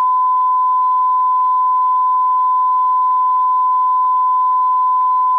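A single steady electronic tone at one fixed pitch, held unbroken and loud over a faint hiss.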